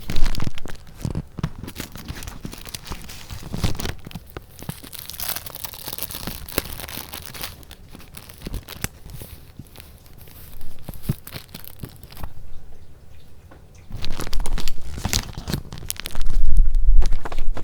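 Paper goods being handled: irregular rustling, crinkling and crackling of sheets, with a loud burst of handling right at the start and heavier rustling with low thumps in the last few seconds.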